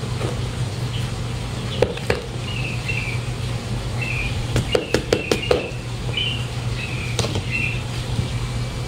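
Small birds chirping in short repeated notes over a steady low hum, with a handful of light knocks, several close together about halfway through, as a black plastic nursery pot is tapped and handled over a clay flowerpot.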